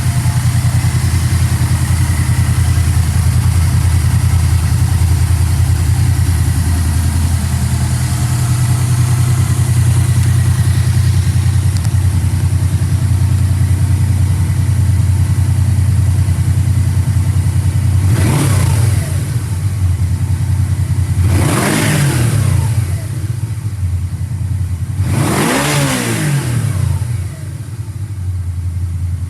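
Yamaha V-Max's V4 engine idling steadily, then revved three times, about 18, 21 and 25 seconds in, each rev climbing and dropping back to idle.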